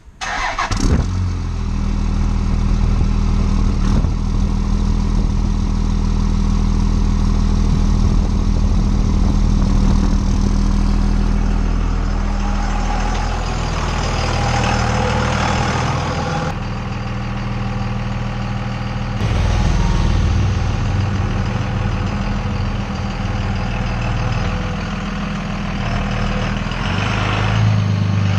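Dodge Ram 2500's Cummins turbodiesel engine starting right at the beginning, then running steadily, its pitch shifting a few times.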